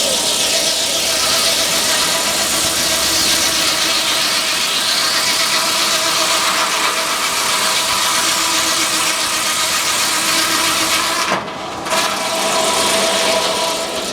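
Frick sawmill running, its circular saw cutting through a log: a loud, steady, harsh whine of blade and wood that breaks off briefly near the end.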